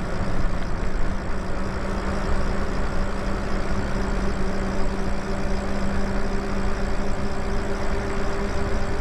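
Lyric Graffiti electric bike being ridden on the throttle at a steady speed: tyre and wind rush with a steady low hum.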